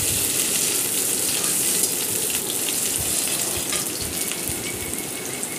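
Chopped onion and green chilli sizzling steadily in hot oil in a kadhai while a metal spatula stirs and scrapes the pan, with scattered clicks; the onions are being fried until brown.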